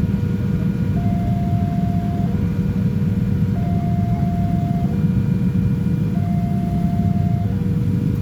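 Level-crossing warning alarm sounding two alternating electronic tones, a higher and a lower note each held about a second, repeating steadily over a continuous low rumble.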